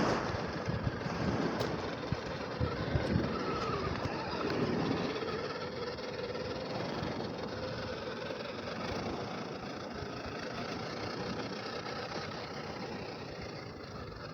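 Electric motor and geartrain of an Axial SCX10 II RC crawler whining as it crawls, the pitch wavering up and down with the throttle.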